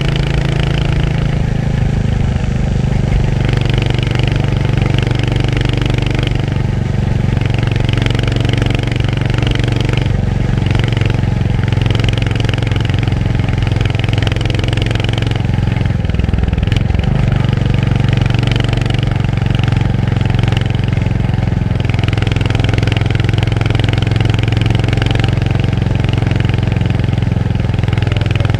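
Royal Enfield Hunter 350's single-cylinder engine running steadily while riding. Its note dips briefly a little past halfway through, then settles again.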